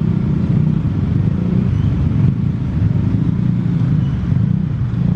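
Road traffic of cars and motorcycles with engines running: a steady low rumble.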